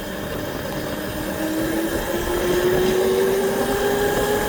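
Motorbike engine pulling away, its pitch climbing steadily from about a second and a half in as it speeds up, over a constant rushing noise.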